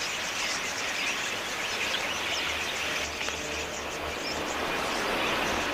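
A large flock of budgerigars chattering, many short high chirps overlapping into a steady din.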